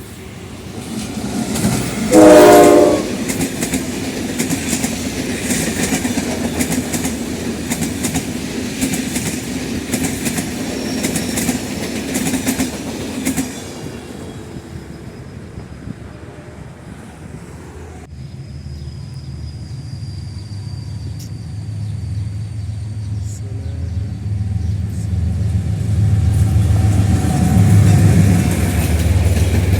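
A General Electric diesel locomotive sounds one short, loud horn blast about two seconds in, then the train passes with its wheels clacking over the rail joints. After an abrupt change about two-thirds of the way through, a low diesel engine rumble builds as a locomotive approaches.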